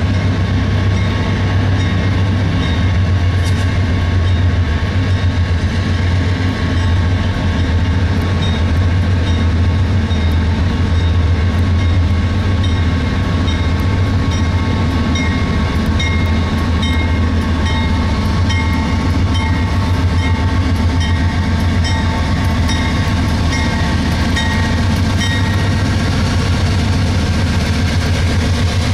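CSX intermodal freight train rolling past steadily, its wheels running on the rails. A deep constant rumble sits under a few thin steady tones, with faint regular ticks.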